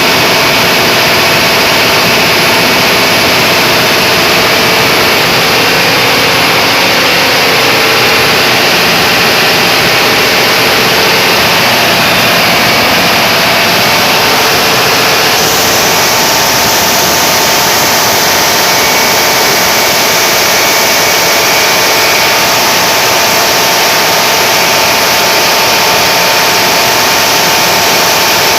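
Standby generator engine running loudly and steadily under a load test.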